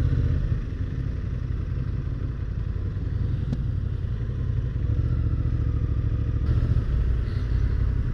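Motorcycle engine running at low speed as the bike rolls in to a stop, easing off about half a second in and pulling on a little again about five seconds in. A single click about three and a half seconds in.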